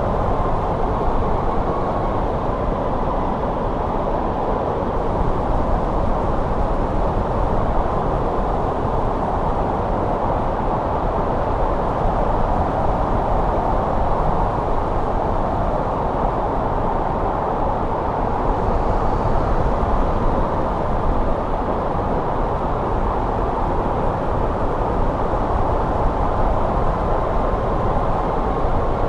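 Wind blowing steadily in a snowstorm, a constant rushing noise weighted to the low end with a faint thin whistle in it at times.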